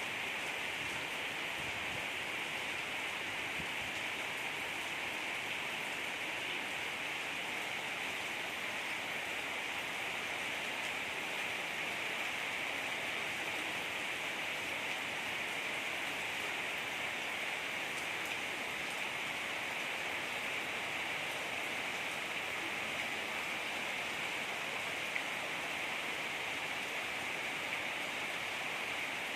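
Heavy rain falling steadily, a continuous even hiss that does not let up.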